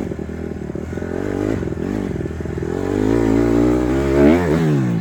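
Honda CRF150R dirt bike's single-cylinder four-stroke engine running, then revving up about three seconds in, peaking and dropping back near the end.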